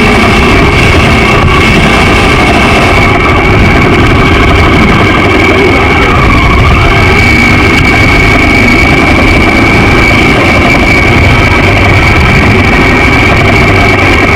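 Honda XR650L's single-cylinder four-stroke engine running steadily under way. It stays very loud with no change in pitch.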